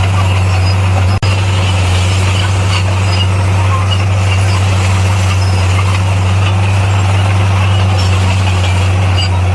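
Heavy diesel earthmoving machinery running steadily, a constant low engine drone, broken by a momentary dropout about a second in.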